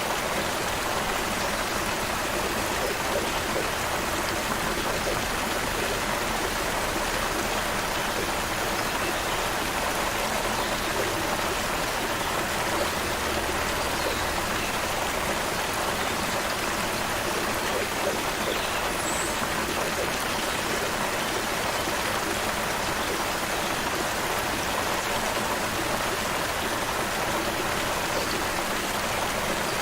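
Creek water flowing over rocks in a steady, even rush.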